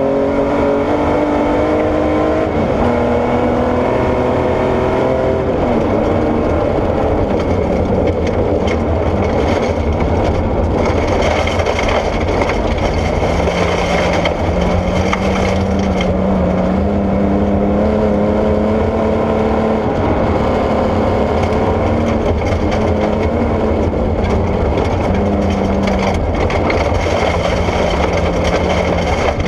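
Porsche 964 rally car's air-cooled flat-six driven hard: in the first few seconds the note climbs and drops back a couple of times through gear changes, then holds a steadier pitch that rises and falls with the throttle. A constant rush of gravel and tyre noise runs underneath.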